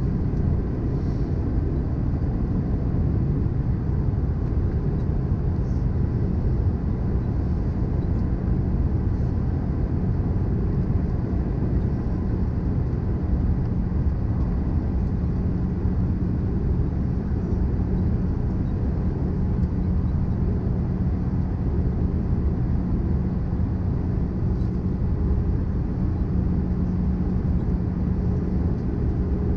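Steady cabin noise inside an Airbus A320-214 descending on approach: a deep, even rumble of airflow and engines with a steady low hum through it.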